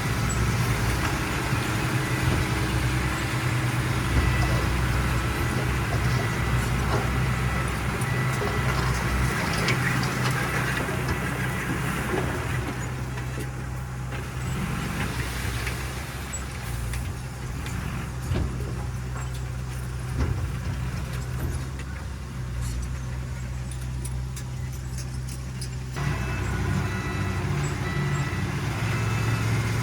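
Diesel engine of heavy earthmoving machinery running steadily. Its louder, higher-pitched noise drops away a little under halfway through and comes back a few seconds before the end.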